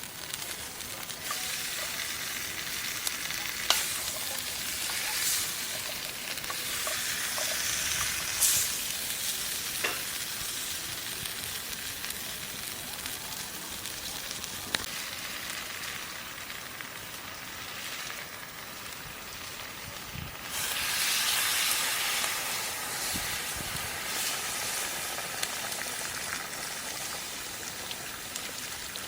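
Food frying in hot oil, a steady sizzle with a few sharp pops. The sizzle swells louder about twenty seconds in.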